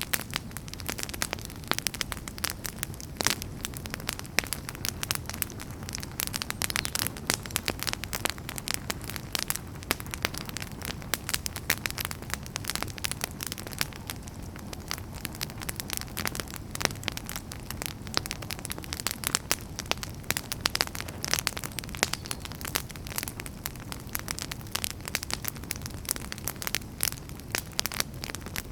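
Wood fire crackling in a fireplace: many irregular sharp pops and snaps over a low steady rumble of burning.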